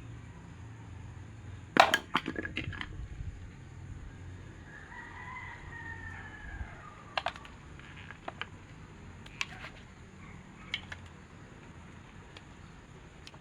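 A rooster crowing once, faint, in one arching call that rises and then falls, about five seconds in. Before it, about two seconds in, comes a loud clatter of sharp knocks, and single clicks follow later, from handling metal fan-motor parts.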